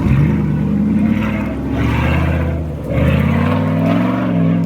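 Off-road 4x4 engine revving hard, its pitch climbing and dropping several times and cutting off near the end.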